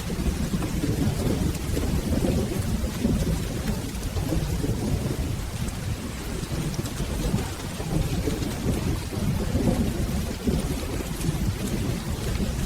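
Steady rain with a continuous low rolling rumble of thunder underneath.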